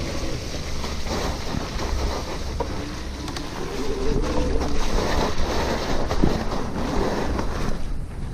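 Wind buffeting the microphone of a chest-mounted camera on a moving electric bicycle, heard as a heavy steady rumble with road and tyre noise. A few knocks and rattles come between about five and seven seconds in.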